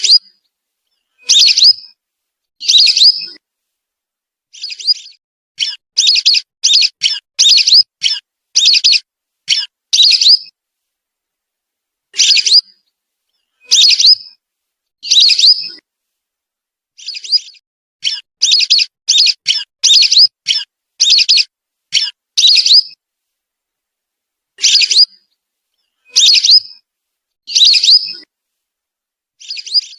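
Whistling duck (belibis) lure call: short high whistled notes, some single and some in quick runs of several, separated by clean silence. This is a call played back to attract whistling ducks.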